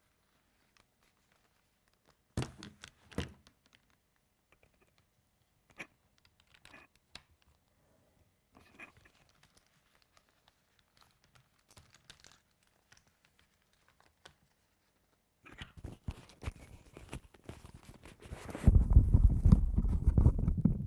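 Handling noise: scattered clicks, scratches and rustling, becoming denser near the end with a louder stretch of rubbing and low rumble in the last two seconds.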